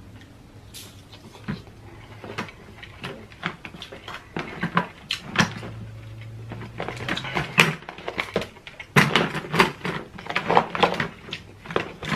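Close-up eating sounds from king crab legs: irregular wet smacks and clicks of chewing and handling the crab, getting busier in the second half.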